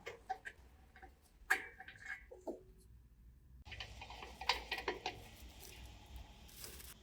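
Light clicks and taps of small hard parts being handled. After a brief gap, a steady scratchy brushing noise begins with more clicks, about halfway through.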